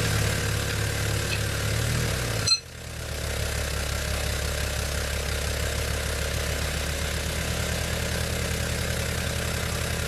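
Motor-driven tube bender running steadily while bending a steel roll-cage tube. There is a sharp click and a brief dropout about two and a half seconds in, then the motor picks up again.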